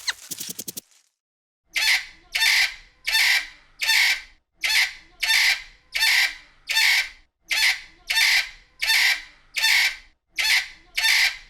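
A bird giving a harsh call over and over at a steady pace, about three calls every two seconds, starting about two seconds in. A brief flurry of rapid clicks comes first.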